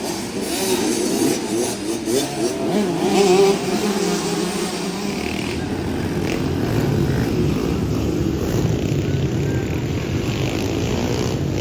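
Small two-stroke 50cc motocross bikes racing, their engines revving up and down with a wavering pitch that is loudest in the first few seconds, then settling into a steadier drone.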